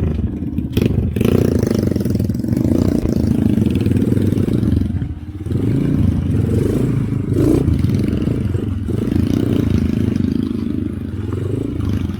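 Motorcycle engine running and pulling through mud, its sound dipping briefly about five seconds in.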